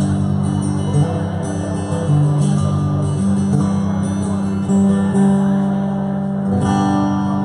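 Live band music with no vocals: strummed acoustic guitar over held low notes that change pitch every second or so.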